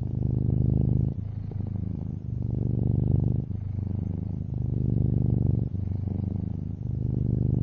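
Long-haired orange tabby cat purring close up, a fast low rattling pulse that swells and eases in a steady cycle of about two seconds, louder on one breath and softer on the other.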